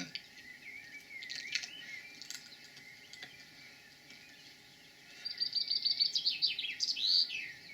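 Songbirds singing: faint warbling throughout, then about five seconds in a louder song of rapid repeated high notes that runs into a few sweeping, falling notes near the end.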